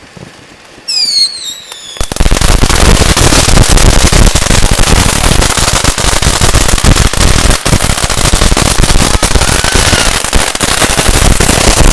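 A string of firecrackers going off in a loud, dense, continuous rattle of rapid bangs for about ten seconds, stopping suddenly near the end. About a second in, just before it, there is a short falling whistle.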